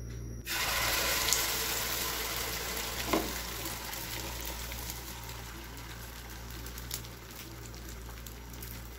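Egg and ground-rice batter sizzling in hot oil in a frying pan. The sizzle starts suddenly about half a second in, as the batter hits the oil, then slowly eases off.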